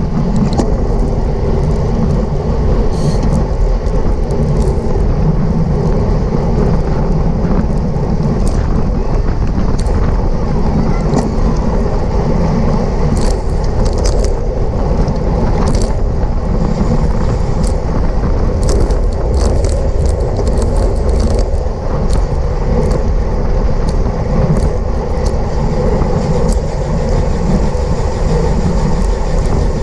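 Wind rushing over the microphone of a racing cyclist's camera at race speed, a loud, steady rush, with scattered sharp clicks from the bike.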